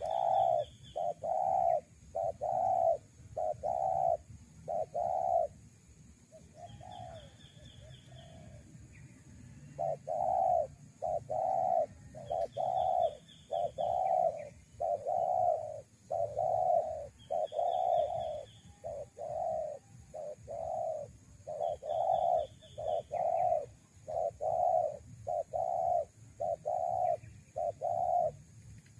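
Spotted doves cooing: phrases of short, low coos, about two a second, broken by brief pauses. A short, higher trill recurs every few seconds.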